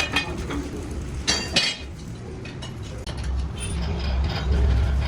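A few sharp metallic clinks and knocks, as of metal tools or parts handled during tire repair work. A low rumble builds up in the second half.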